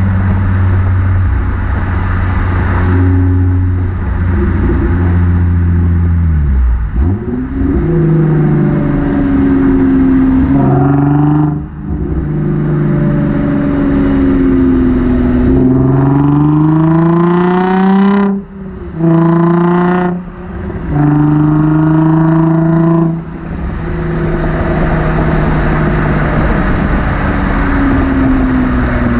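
Nissan 350Z's 3.5-litre V6 through a Motordyne cat-back exhaust, accelerating through the gears: the engine pitch climbs, breaks off briefly at each of several upshifts, then settles into a steady cruise and eases off near the end.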